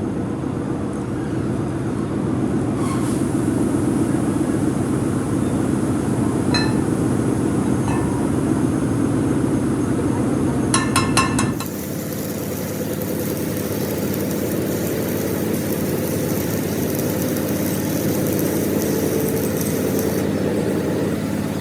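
Steady drone of workshop machinery running, with a few ringing metal-on-metal clinks and a quick run of ringing strikes just before halfway; the background changes abruptly right after them.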